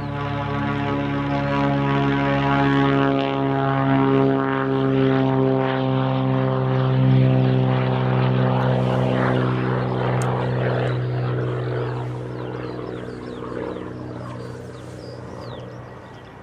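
Propeller-driven light aircraft's piston engine at takeoff power, a steady buzzing note that builds to its loudest about seven seconds in, then fades with its pitch dropping slightly as it passes and climbs away.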